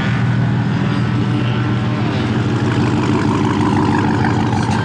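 A car engine running steadily with a deep, even exhaust drone.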